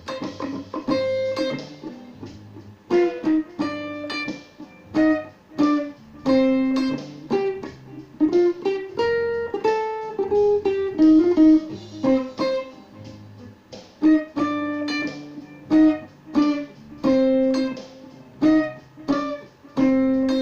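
Electric guitar played through a Line 6 POD HD300 multi-effects unit set to a chorus sound: picked single notes and short chords, with a melodic line that steps downward about halfway through.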